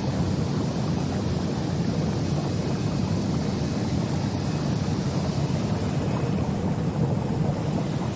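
Ginger washing machine running: a steady, even mechanical rumble with a rushing, water-like noise over it.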